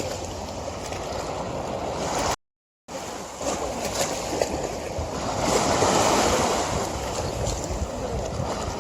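River water flowing and rushing as a steady wash of noise. It cuts out completely for half a second about two and a half seconds in, then swells louder for a second or so past the middle.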